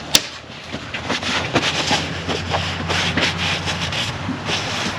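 A steady low machine hum sets in about a second and a half in, with scattered small clicks and knocks of hand tools being handled and a sharp click right at the start.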